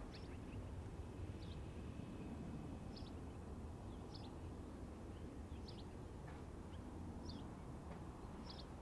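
A small bird giving short, high chirps about every second and a half, seven times, over a steady low rumble.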